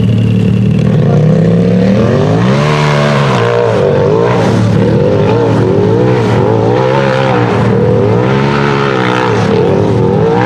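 A side-by-side UTV race engine revving hard and repeatedly, its pitch rising and falling about once a second, over a steady low engine drone.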